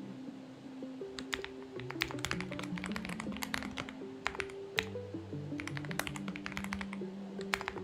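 Typing on a Xinmeng X98 mechanical keyboard in several short runs of keystrokes with pauses between, over background music of slow held notes.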